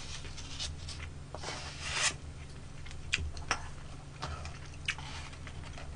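A person chewing a mouthful of rice ball: soft wet rustling swells, with a few short light clicks.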